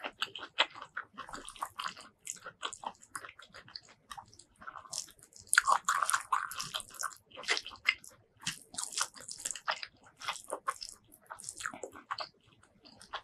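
Close-miked eating by hand: wet, sticky chewing and lip smacking of rice with spicy tomato fish-paste curry, with crisp crunchy bites. A quick run of clicks and crackles that is loudest about halfway through.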